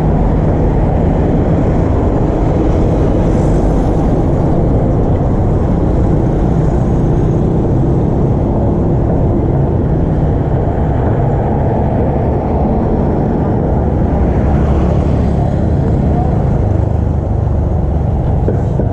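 Steady low motor rumble, loud and unbroken, with a faint hum running under it.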